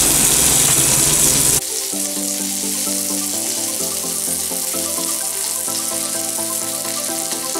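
Chicken leg pieces sizzling as they fry in oil in a pan, a loud steady hiss that cuts off abruptly about one and a half seconds in. Background music with held, changing notes follows for the rest.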